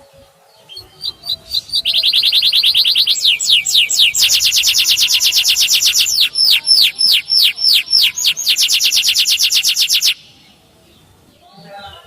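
Male canary singing: a few quick chirps, then a long, fast rolling trill of rapidly repeated high notes with a run of downward-sweeping notes in the middle, stopping abruptly near the end.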